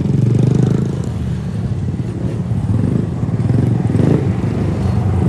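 Small motorbike engine running steadily, a low pulsing rumble.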